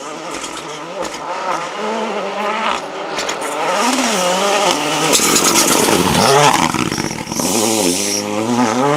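Rally car engine at high revs on a special stage, the pitch climbing and dropping again and again with gear changes and throttle lifts, loudest about five to six and a half seconds in.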